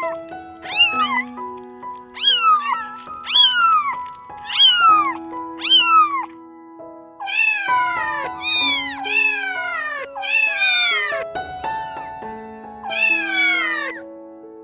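A domestic cat meowing over and over, about nine meows that each fall in pitch: short ones at first, longer drawn-out ones in the second half. Background music with held notes plays underneath.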